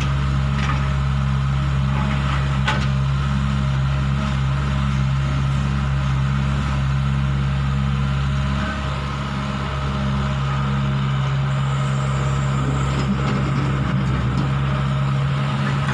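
Hitachi 120 excavator's diesel engine running steadily under work, a constant low drone that dips slightly about nine seconds in.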